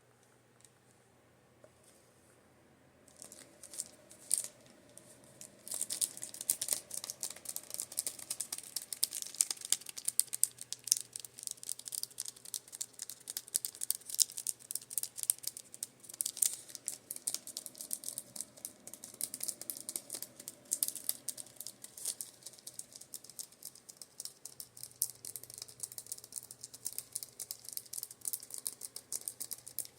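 Makeup brushes being tapped: a few light taps about three seconds in, then a fast, steady run of crisp clicks from about six seconds on. Under it, the low hum of a rotating fan comes and goes.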